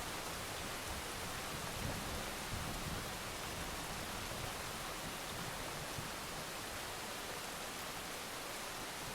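Steady heavy rain, an even hiss, with a soft low rumble of thunder swelling about two to three seconds in.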